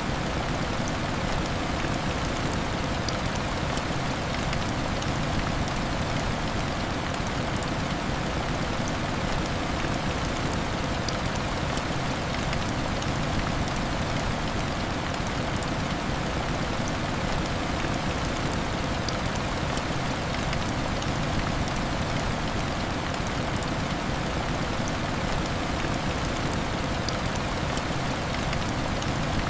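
Steady heavy rain, a dense even hiss with faint scattered ticks of drops.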